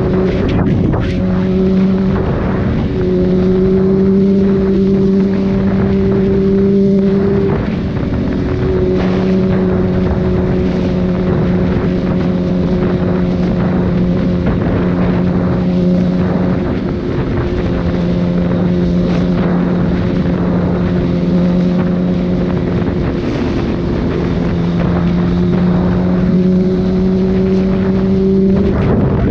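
Sport motorcycle's inline-four engine heard from onboard, running at steady cruising revs with wind on the microphone. The engine note holds fairly level and breaks off briefly about four times, as the throttle is eased or a gear changed.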